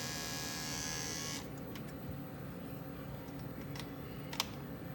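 Electric dog clipper running with an oiled blade on, a high buzz that cuts off about a second and a half in; the blade is being run to work the oil in. A lower hum carries on after that, broken by a few light clicks, one sharper near the end.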